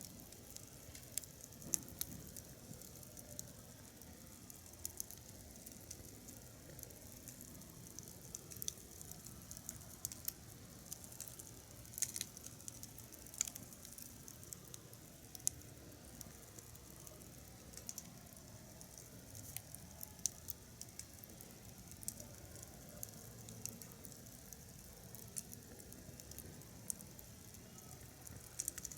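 Wood fire crackling: scattered sharp pops and snaps over a faint hiss.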